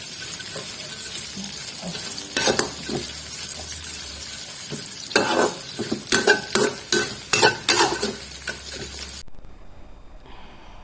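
Stir-fry of galangal stems and anchovies sizzling in a pan while a metal spatula stirs it, with a run of sharp clanks and scrapes against the pan between about five and eight seconds. The sizzle cuts off suddenly near the end.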